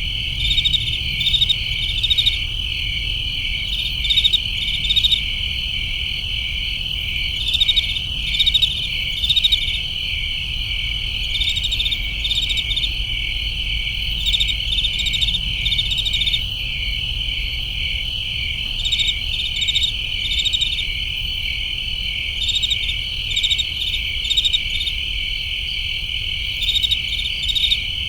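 Crickets chirping: a steady high trilling chorus, with louder pulsed chirps in short groups every second or two, over a faint low rumble.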